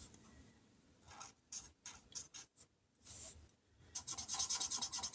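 A colouring tool scratching on paper as a small shape is coloured in: a few light scratches, then from about four seconds in a fast, even back-and-forth scribbling.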